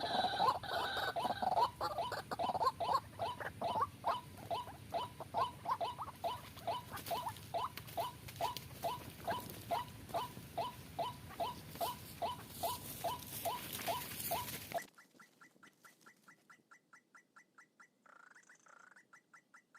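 White-breasted waterhen (ruak-ruak) calling: a rapid run of harsh, repeated notes, about three a second. About three-quarters of the way through it cuts off abruptly to a quieter, cleaner and higher series of the same quick notes.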